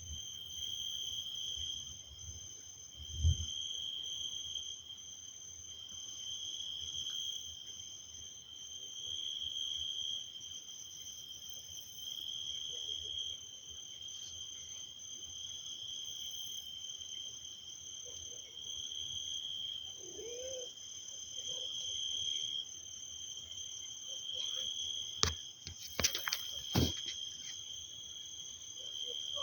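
Night insect chorus: a continuous high trill that swells and fades every second or two. There is a brief low thump about three seconds in and a few sharp clicks near the end.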